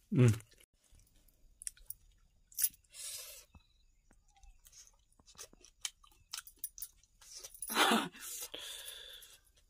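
Chewing and wet mouth sounds of a person eating chicken curry and rice by hand, with small scattered clicks. About eight seconds in comes a louder breathy vocal sound, then a softer exhaled haze.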